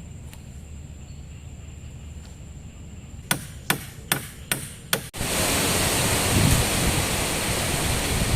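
Five sharp strikes about 0.4 s apart over a quiet low hum. A little after five seconds the sound cuts suddenly to a loud, steady rush of heavy rain and wind.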